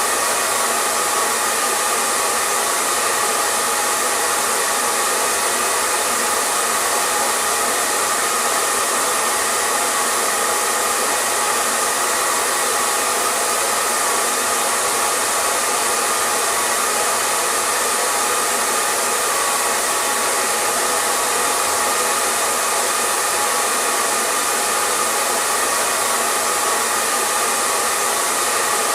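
Hair dryer blowing steadily, a constant even whoosh with a faint hum and no change in speed.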